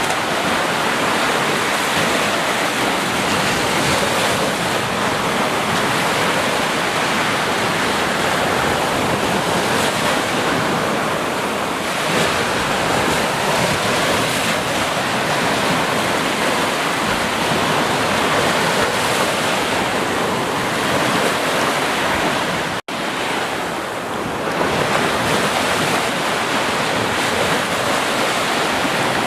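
Steady rushing water, a dense even wash of noise, broken by a split-second dropout about three quarters of the way through.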